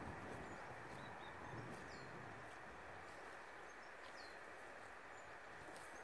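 Faint countryside ambience: a steady hiss with a few small, high bird chirps, two of them short falling calls about two and four seconds in.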